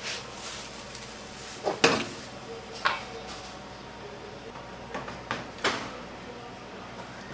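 Kitchen handling clatter: about six sharp knocks and clinks of utensils or pans, the loudest about two seconds in, over a steady background hum.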